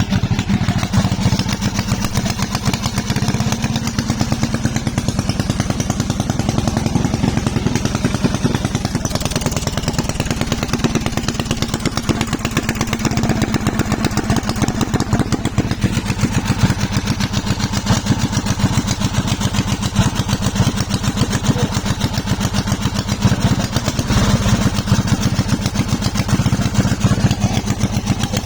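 Honda 13 hp single-cylinder four-stroke engine running at a steady speed, with a fast, even firing beat.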